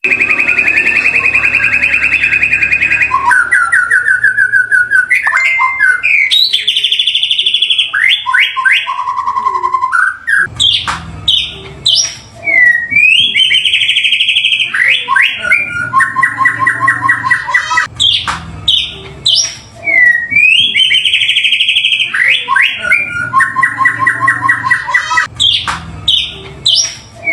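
White-rumped shama (murai batu) singing loudly: a varied song of whistled glides, fast rattling trills and sharp chirps, with the same phrases coming round again every several seconds.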